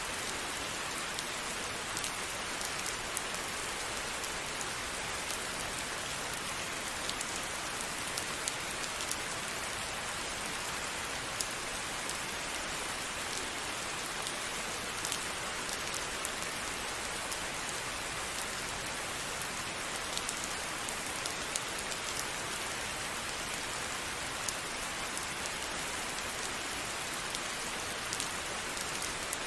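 Steady rain falling on a surface, an even hiss with scattered individual drops ticking sharply throughout.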